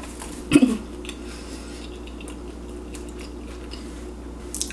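A short loud sound about half a second in, then faint scattered clinks and clicks of tableware during an eating pause.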